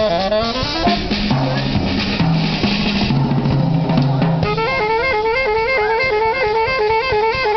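Street band playing: a drum kit and a low bass line, joined about halfway through by a pitched lead instrument playing a quick, repeating up-and-down figure.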